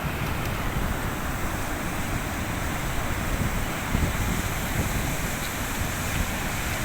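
Steady rush of floodwater flowing past a railway embankment, with gusty wind buffeting the microphone.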